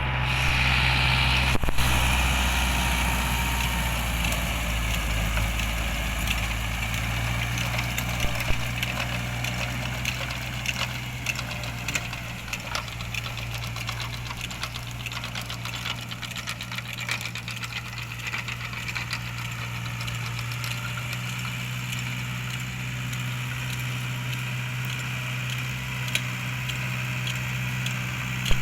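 Same Corsaro 70 DT tractor's air-cooled diesel engine running steadily, with light rattling clicks over the engine note.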